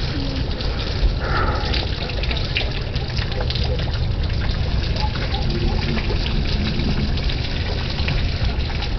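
Steady rushing noise of a heavy thunderstorm: wind buffeting the microphone with a low rumble, and a dense crackle of small hits.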